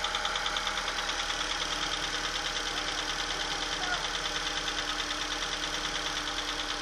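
Astra 2.0 engine idling cold with a fast, even, rhythmic clatter: the strange noise it makes while still cold after starting.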